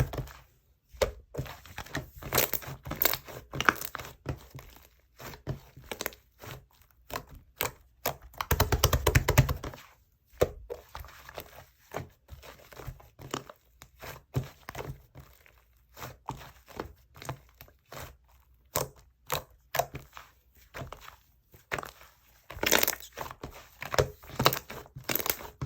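Clay slime being squeezed, stretched and poked by hand, giving irregular sticky clicks and pops, with bursts of rapid crackling about nine seconds in and again near the end.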